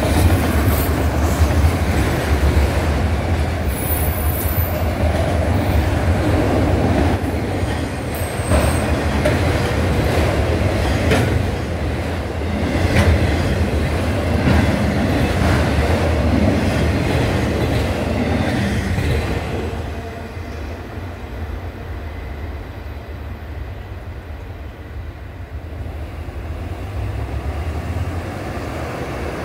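Autorack freight cars rolling through a grade crossing, wheels clattering on the rails with brief high wheel squeals. The sound drops away about twenty seconds in as the end of the train passes.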